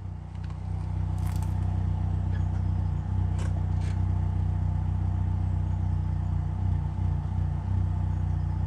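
Ford Fiesta ST150's 2.0-litre four-cylinder idling steadily on a cold start through a decatted Scorpion cat-back exhaust, with a low, even exhaust drone and a few light ticks.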